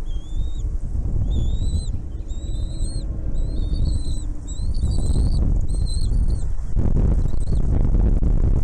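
A small bird gives about ten short, high, arching calls in quick series, which stop after about six seconds. A steady low rumble runs under them throughout and gets louder near the end.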